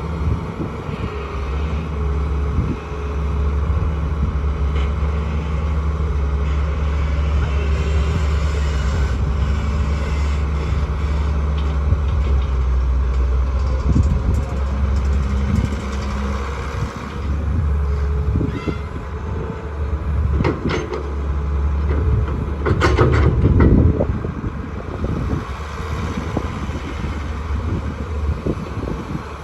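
Diesel engines of a tractor and a backhoe loader running steadily in a low drone, with a short spell of clattering knocks about twenty seconds in.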